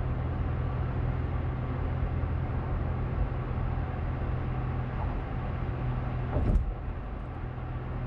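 Steady road and engine noise inside a moving car's cabin: a low hum under an even rush. A brief louder swell about six and a half seconds in.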